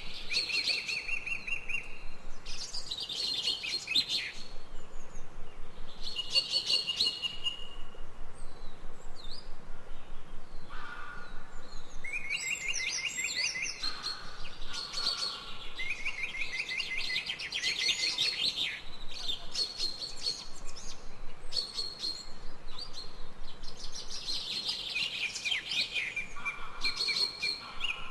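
Songbirds singing in a forest, with phrases repeating every couple of seconds: fast trills and higher, shorter notes, sometimes overlapping.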